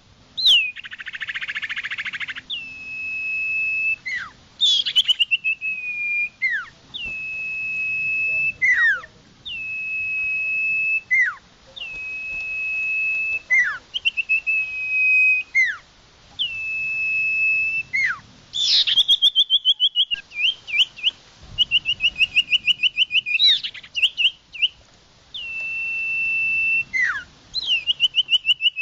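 Common iora song: a long, clear, level whistle that ends in a quick downward slur, repeated about every two seconds. From about two-thirds of the way in it changes to fast trilled notes. A short rasping buzz comes about a second in.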